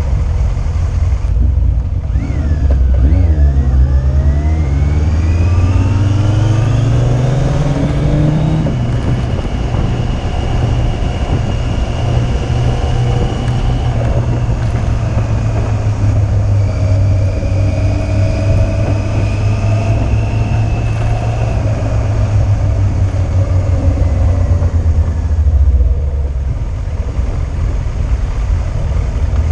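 Yamaha Fazer 600's inline-four engine on the move: the revs climb steadily for about six seconds, then hold steady while cruising, with a brief dip and pick-up near the end.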